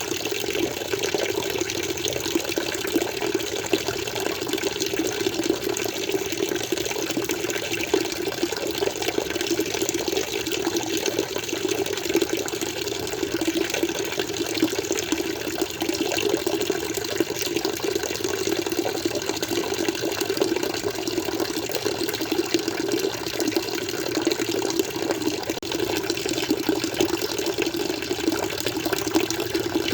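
Water in an aquarium flowing and splashing steadily, a continuous even rush with no change.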